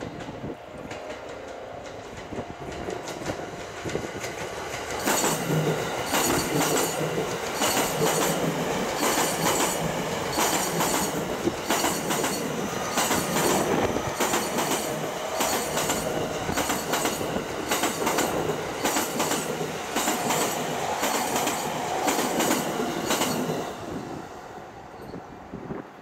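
JR East E231 series electric commuter train passing, its wheels clicking in a steady rhythm over the rail joints. It grows louder as the train comes in, stays loud while the cars go by, and fades near the end.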